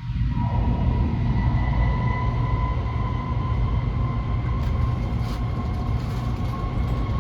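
N700S Shinkansen running at speed, heard from inside the passenger car: a loud, steady low rumble of wheels and running gear with a faint steady whine above it. It begins abruptly.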